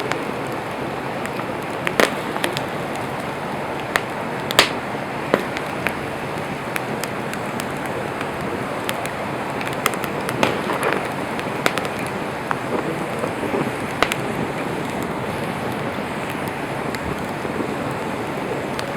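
Wood campfire burning: a steady hiss of the flames with sharp pops and crackles from the burning wood every second or two, the loudest about two and four and a half seconds in.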